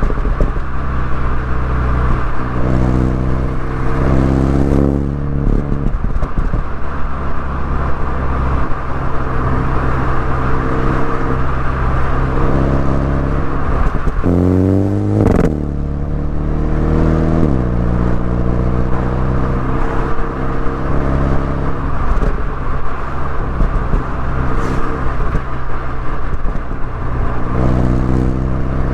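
MINI Cooper S engine and exhaust under way on a winding road, a steady drone with the pitch moving with speed. About halfway through the revs climb quickly, cut off sharply as if at a gear change, then settle back to a lower cruising note.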